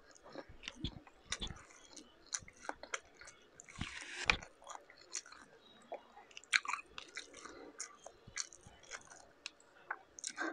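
Close-up chewing of shrimp and rice, with wet mouth clicks, and the crackle of whole cooked shrimp shells being pulled apart by hand: scattered sharp clicks and small crunches, with one longer rustle about four seconds in.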